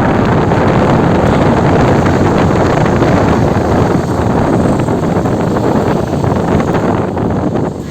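Loud, steady rush of wind buffeting the microphone, with the road noise of a moving car underneath. It dips briefly near the end.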